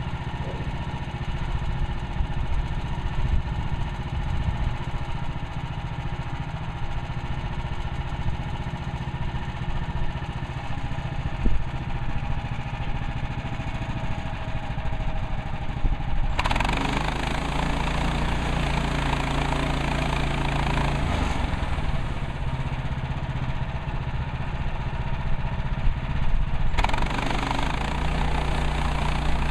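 Gasoline engine of a Woodland Mills HM130 Max portable band sawmill running steadily. About halfway through it abruptly becomes louder and fuller with a rougher edge, drops back briefly near the end, then picks up again.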